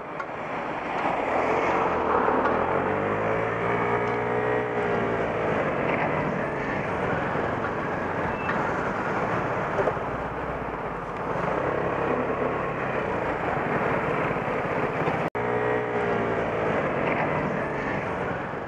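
Riding noise picked up by a camera on a moving Vespa GTS 125 scooter: a steady rush of wind and road noise, with engine tones that rise and fall in pitch about three seconds in and again near the end.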